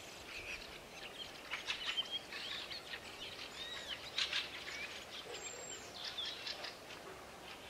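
Small songbirds chirping and singing, in short clusters of high notes with a few rising and falling whistled glides.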